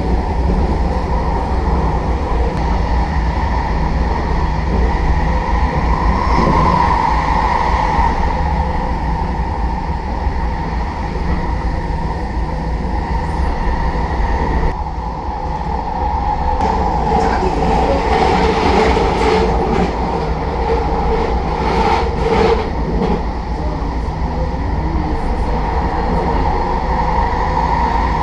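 SkyTrain light-metro car running along the track: a steady rumble with a whining tone. The sound dips briefly about halfway through, and a few clicks come a little later.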